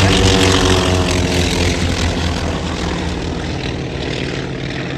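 North American T-28 Trojan's Wright radial engine and propeller passing by. The engine note drops slightly in pitch over the first couple of seconds, and the sound fades steadily as the aircraft moves away.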